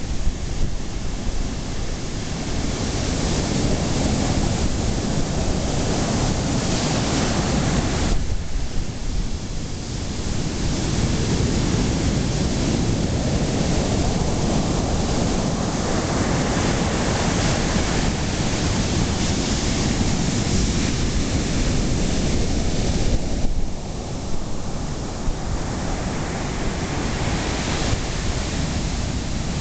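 Ocean surf breaking steadily, with wind buffeting the microphone. The noise eases briefly about eight seconds in and again a little before the end.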